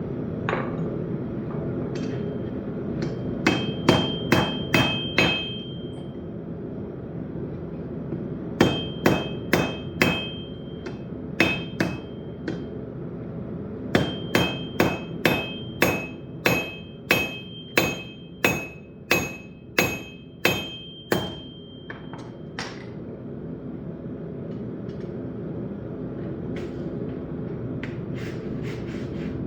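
Blacksmith's hammer striking steel on an anvil in three bursts of blows, the longest a run of about a dozen at roughly two a second. Each strike rings with a bright metallic tone, over a steady low rumble.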